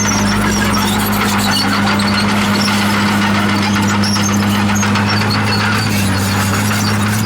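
Komatsu D51PX bulldozer's diesel engine running with a steady low hum, with scattered high squeaks from the machine working.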